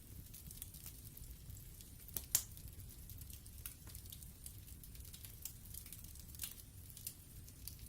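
Wood fire burning in a fireplace, crackling with scattered small pops, the sharpest about two and a half seconds in, over a low, steady rumble.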